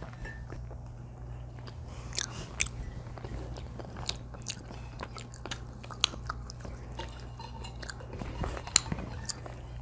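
People chewing and biting food, with irregular sharp wet clicks and smacks of the mouth over a steady low hum.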